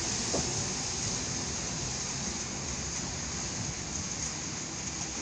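Steady rain hiss, with an EN57 electric multiple unit fading as it pulls away along the platform.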